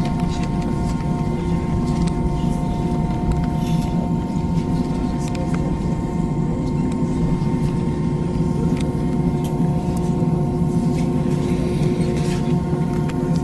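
Jet airliner's engines running steadily at low power before the takeoff roll, heard inside the cabin: a continuous low rumble with a few steady whining tones over it.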